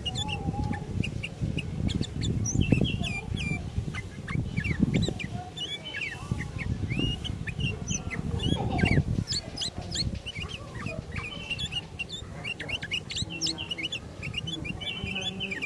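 Sooty-headed bulbuls (kutilang) calling, with many short chirps and whistled notes overlapping. A low rumble runs underneath and swells a few times.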